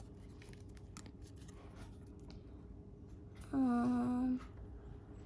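Faint light clicks of trading cards being handled, then about three and a half seconds in a man hums a short, steady 'mmm' for just under a second.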